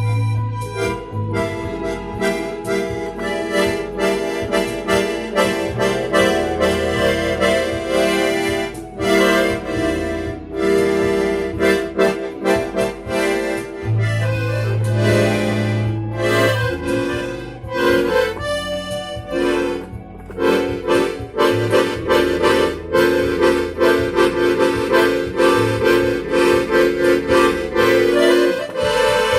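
Small accordion playing a lively tune: sustained chords over low bass notes, with a steady rhythmic pulse.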